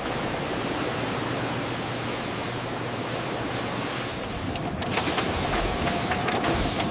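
Steady factory machinery noise: a continuous hiss with a low hum. About two-thirds of the way through, a faint mid-pitched tone and a few light clicks join in.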